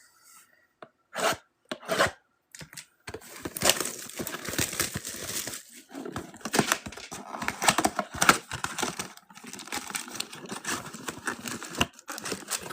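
Packaging of a retail Mega box of football trading cards being torn open and crinkled by hand: a few short rips, then about three seconds in a long stretch of continuous tearing and crinkling.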